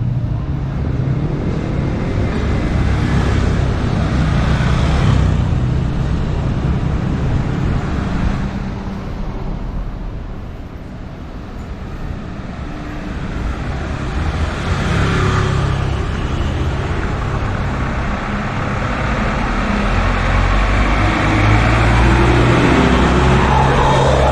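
Street traffic: vehicle engines running and passing close by, with a quieter lull about halfway through and engines building up louder again near the end.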